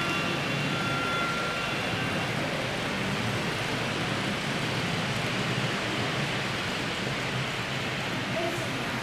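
Steady, even background noise of a model railway exhibition hall, with faint thin high whines that stop about two seconds in.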